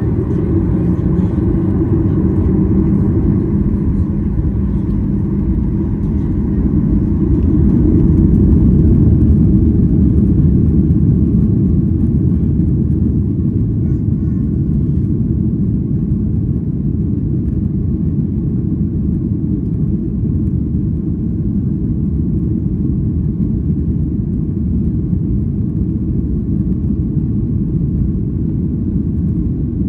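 Steady low rumble inside the cabin of a Boeing 737-800 airliner: jet engine and airflow noise, swelling slightly about a third of the way in before settling.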